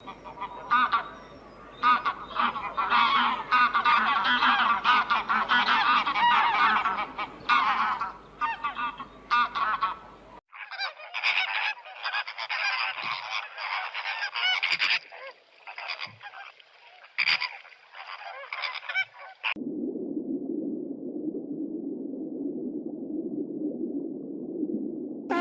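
Geese honking in a dense, noisy flock chorus. About ten seconds in, a cut to another stretch of calls with a thinner sound, and near the end a cut to a low, steady drone.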